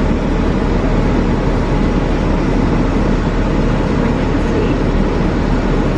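A car's engine idling steadily, heard from inside the cabin as a constant low drone.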